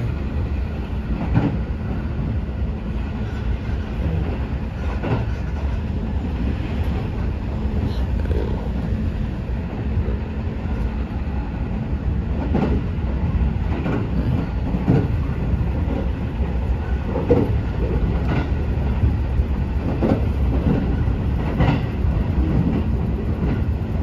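A JR electric train running, heard from inside the carriage: a steady low rumble of wheels on the rails with a faint hum, and irregular clacks from the track every few seconds.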